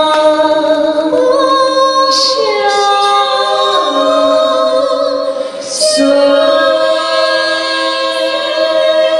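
Women's vocal trio singing a wordless ending in close harmony: several voices hold long notes and move to new pitches every second or two, with brief breath or consonant sounds about two and six seconds in.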